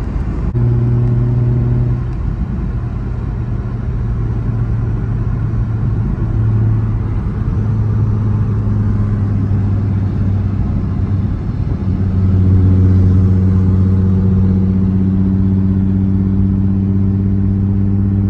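Nissan 350Z Nismo's 3.5-litre V6 through a Tomei single-exit axle-back exhaust, cruising at steady throttle with a low engine note. The note shifts a couple of times and grows louder and steadier about twelve seconds in.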